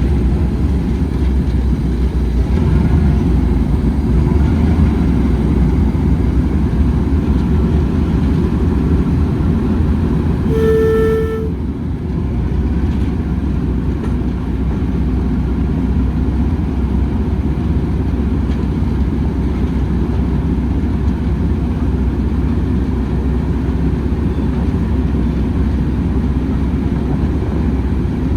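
A heritage train running with a steady low rumble, and one short toot of the locomotive's horn or whistle, about a second long, about ten seconds in.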